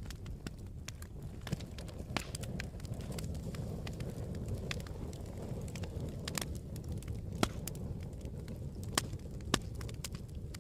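Campfire burning with a steady low rumble and irregular crackles and pops of the burning wood, a few louder snaps among them.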